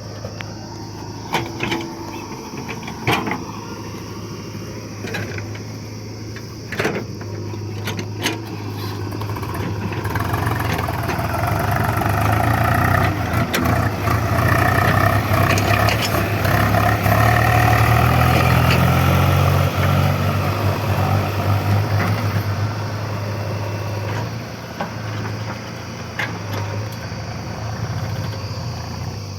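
Swaraj tractor's diesel engine running under load, getting louder for several seconds past the middle and then easing back, with a few sharp knocks early on.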